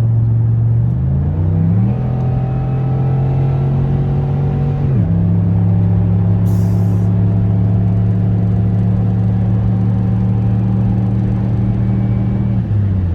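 Cammed, straight-piped 2008 Impala SS's 5.3-litre LS4 V8 exhaust droning under way, heard from inside the car. The revs climb about a second in, hold, drop sharply near the middle, then hold steady and fall again near the end.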